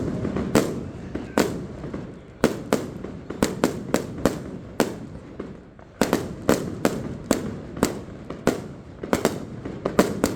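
Fireworks display: aerial shells bursting in a rapid, irregular series of sharp bangs, about two dozen in all, thinning out for a moment before a denser run of bursts about halfway through.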